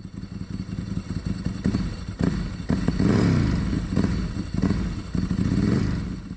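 BMW M50B25 straight-six with aftermarket headers and exhaust, revving, its pitch rising and falling several times, with brief breaks about two seconds in.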